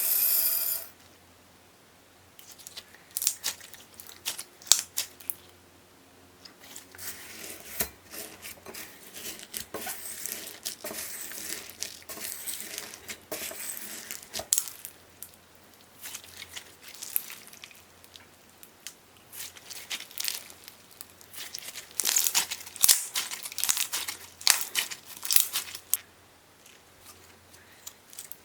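Hands working with slime-making materials: irregular crinkling, crackling and tearing sounds with sharp little clicks, busier in two stretches. A short piece of music ends about a second in.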